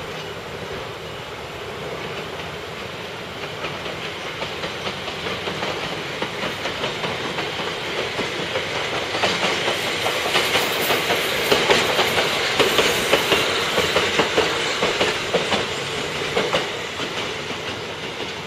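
Two-car electric commuter train passing by, its wheels clicking over the rail joints in a regular clickety-clack. The sound grows louder, is loudest a little past the middle, then fades as the train moves away.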